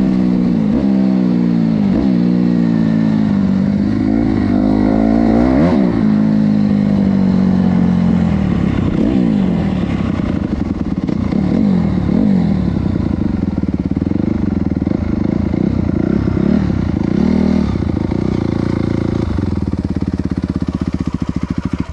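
Honda CRF250R dirt bike's single-cylinder four-stroke engine running, with repeated blips of the throttle that rise and fall in pitch, then cutting off abruptly at the very end.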